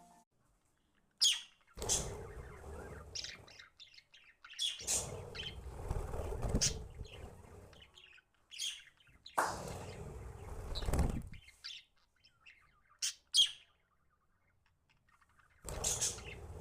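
Budgerigars chirping in short high calls, with four bursts of wing-flapping that each last one to three seconds.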